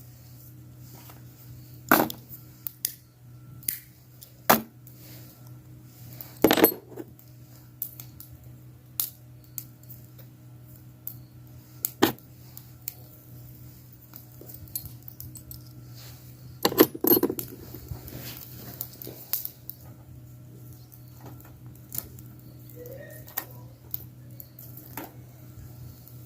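Scattered light clinks and knocks of small hard objects being handled, the loudest about two seconds in, at six and a half seconds and at seventeen seconds, over a steady low hum.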